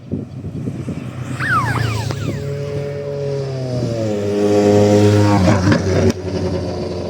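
A rally car's engine at speed on a gravel stage. The pitch falls in steps, then it grows loudest about five seconds in and breaks off abruptly just after six seconds.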